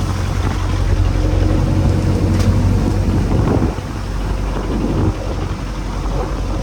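Small fishing boat's engine running steadily at sea, under a continuous rush of water and wind noise.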